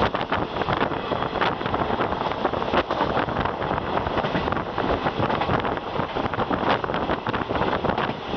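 A passenger train running past, a steady rumble with a dense rattle of clicks from the wheels on the rails, and wind buffeting the microphone.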